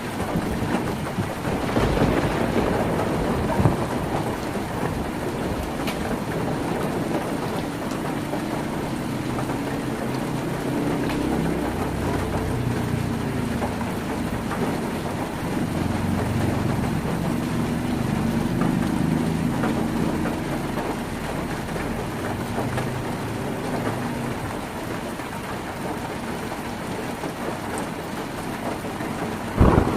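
Heavy rain falling steadily on a tin roof, with a low rumble of distant thunder rolling through the middle.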